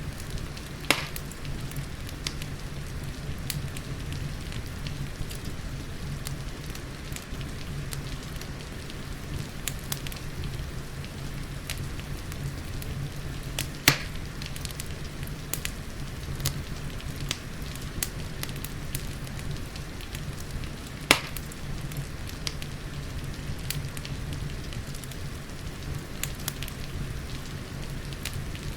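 Wood fire crackling, with many small ticks and three loud sharp pops (about a second in, midway and about two-thirds through), over a steady hiss of rain.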